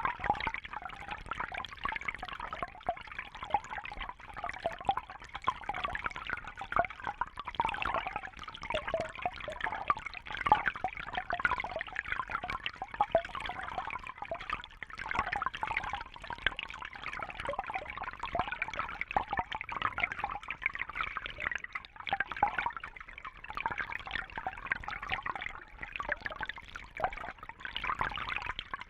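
Fish tank water trickling and splashing steadily, full of small quick splashes and drips.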